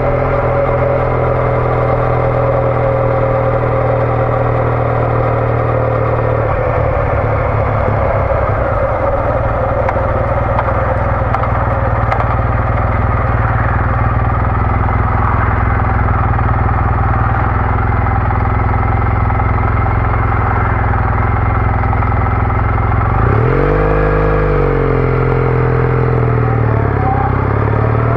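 Triumph Bonneville T214's parallel twin running through a TOGA aftermarket exhaust while riding. It holds a steady note, which about seven seconds in eases back under a steady rush. Near the end the revs climb sharply, dip at a gear change and climb again.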